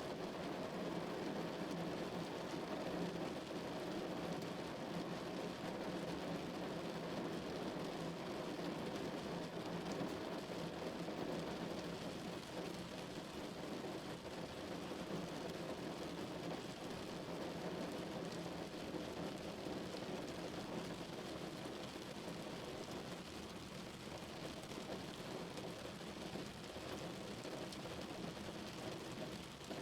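Steady rain drumming on a car's roof and windows, heard from inside the cabin as a dense, even patter.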